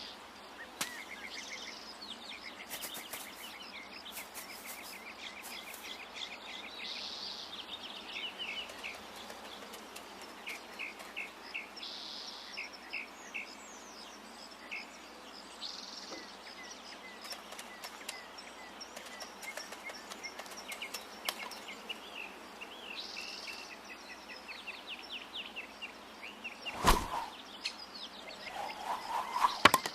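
Birds chirping and trilling in many short calls over a steady background hiss, with a single sharp thump near the end.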